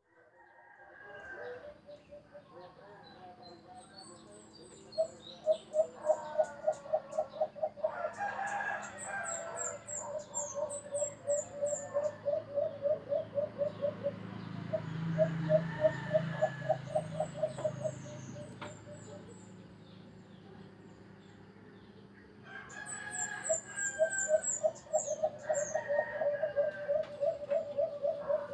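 Birds calling: several runs of quick, evenly repeated mid-pitched notes, each lasting a few seconds, with thin high chirps over them.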